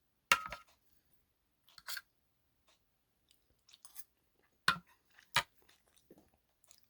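Handling noise: a few short, sharp clicks and knocks with quiet between them, the loudest just after the start and two more close together about five seconds in.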